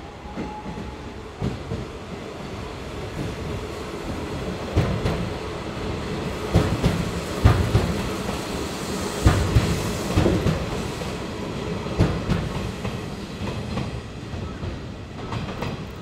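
Nishitetsu electric train pulling out and passing close by, its wheels clacking over rail joints and points. The clatter builds to its loudest in the middle as the cars go past, then eases as the train moves away.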